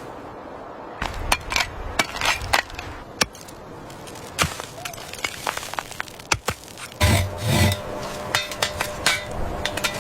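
Irregular sharp knocks and clinks of hard objects being handled, with a louder cluster of knocks about seven seconds in.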